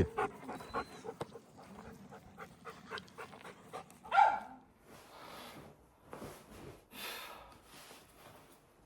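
Dog panting in short breathy bursts, with one brief whine falling in pitch about four seconds in.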